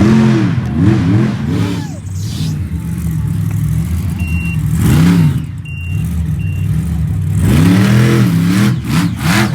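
Monster truck engines revving hard, pitch swinging up and down again and again, with a few short high beeps about halfway through.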